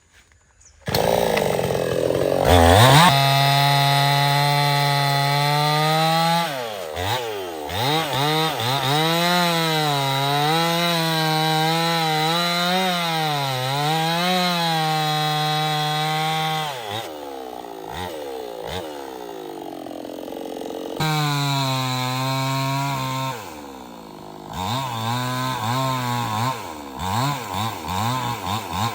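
Stihl 070 two-stroke chainsaw starting up suddenly about a second in and revving high, then its pitch wavering and dipping under load as it cuts into teak wood. It drops back to a lower speed, then revs and cuts again in shorter, uneven bursts near the end.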